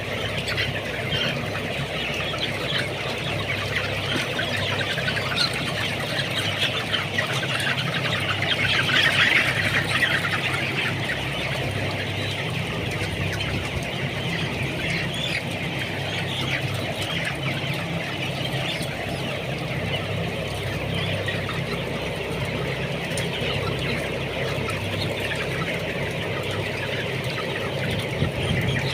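A large flock of broiler chickens clucking and peeping continuously, swelling louder about a third of the way in, over a steady low hum.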